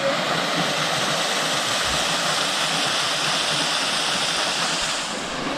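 Waterfall rushing, a steady hiss of falling water that eases slightly near the end.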